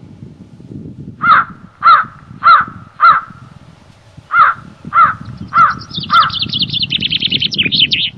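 A bird calling loudly in two series of four evenly spaced calls, followed by a rapid run of higher, quicker notes near the end. Low wind noise runs underneath.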